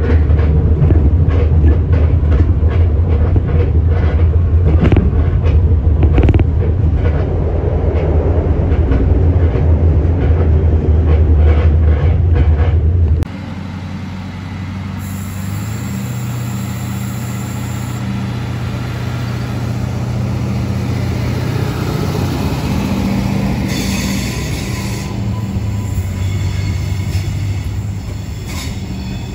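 For about the first 13 seconds, a train cabin rumbles loudly at speed, with clicks from rail joints. Then it cuts abruptly to a quieter platform scene: an Adelaide Metro 3000-class diesel railcar approaches and passes close by with a steady engine hum and brief high-pitched wheel squeals, twice.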